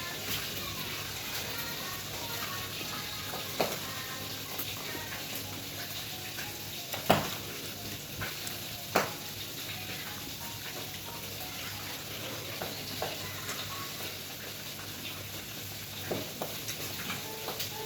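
Food sizzling in a hot pan, a steady frying hiss, with a few sharp knocks of a utensil against the pan, the loudest about seven seconds in.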